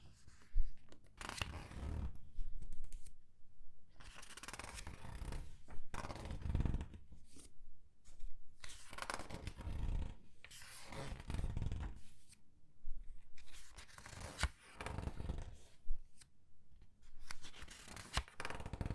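Comic book pages being turned and squeezed by hand: a series of papery rustles and crinkles, one every second or two, with sharp crackles in them.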